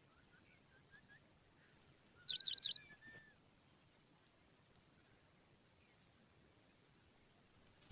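Small birds chirping: a brief burst of loud, rapid high chirps about two seconds in, over faint high chirping throughout.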